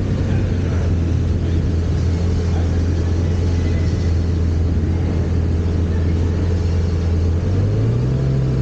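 A car engine running with a steady low drone, its pitch rising a step about three-quarters of the way through.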